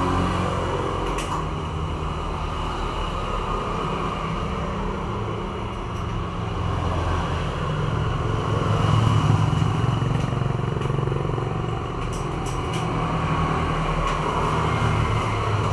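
Steady low rumble that swells slightly in the middle, with a few faint clicks about a second in and near the end.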